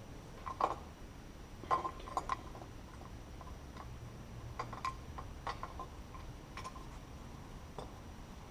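Light metallic clicks and clinks of hand tools and small engine parts being handled on a motorcycle engine, about nine irregular taps, some with a short ring.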